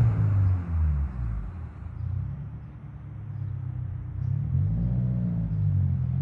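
Subaru WRX's turbocharged flat-four through a titanium single-exit catback exhaust, dropping off throttle just after a rev and settling into a low exhaust rumble. The rumble dips in level and then swells again, with a gentle rise and fall in revs about five seconds in.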